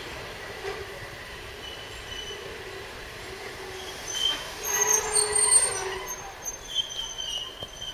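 ET22 electric locomotive and its coaches running slowly through the station, a low rumble broken by thin, high-pitched squeals from the wheels that come and go. The sound swells louder about five seconds in.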